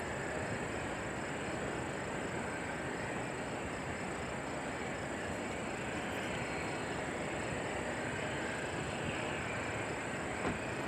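Steady roar of a Boeing 767's jet engines on landing approach, even in level throughout.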